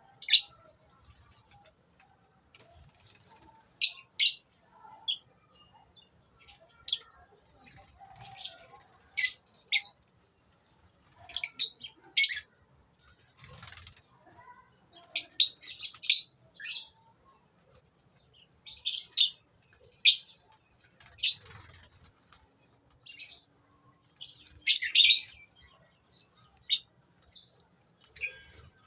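Lovebirds in a colony aviary calling: short, shrill chirps and squeaks, singly and in quick bunches, at irregular intervals.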